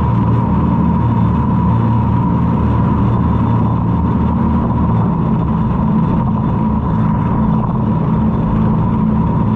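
Jet boat engine running steadily, a low drone with a steady higher whine above it and a wash of wind and water noise.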